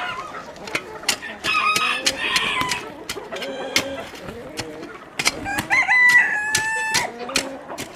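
Chickens clucking and a rooster crowing twice, two long calls about a second and a half in and again about five seconds in, the second louder. Scattered sharp clicks run underneath.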